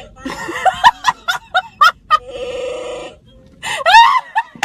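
Electronic Chewbacca mask's built-in sound chip playing a Wookiee growl through its small speaker, set off by the wearer's mouth opening. It sounds as a steady drone about two seconds in, with choppy, high-pitched laughter bursts before it and again near the end.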